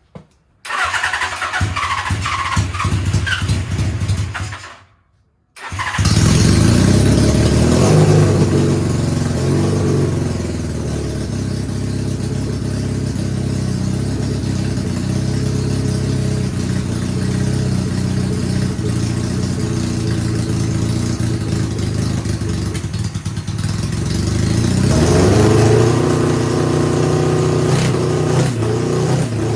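1978 Suzuki GS750 inline-four motorcycle engine running just after a hard start, with a brief gap about five seconds in, then idling with the revs rising around eight seconds and again near the end. The owner says it isn't running real hot.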